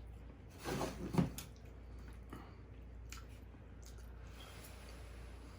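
Close-miked chewing and wet mouth sounds of someone eating fried catfish, with a short louder burst about a second in, then faint scattered smacks and clicks.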